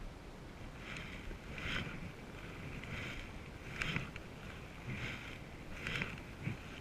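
Canoe paddles dipping and pulling through water in a steady rhythm, about one splashy stroke a second, over light wind on the microphone.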